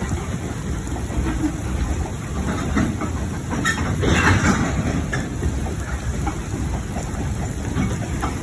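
A train running past with a steady rumble and irregular clatter from its wheels, and a brief louder rush about four seconds in.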